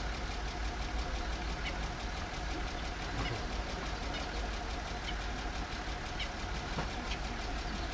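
Safari vehicle's engine idling with a steady low rumble, with a few short faint chirps scattered through it.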